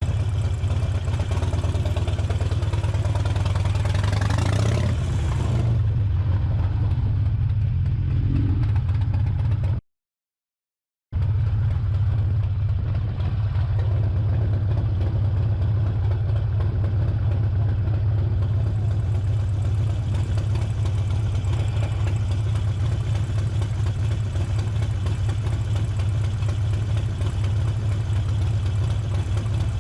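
Harley-Davidson Sportster 1200's air-cooled V-twin engine running steadily under way, with a strong low rumble. The sound cuts out completely for about a second around ten seconds in.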